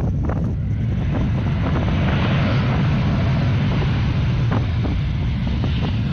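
Wind buffeting the microphone: a steady, loud rumble with a hiss that swells in the middle and eases off near the end.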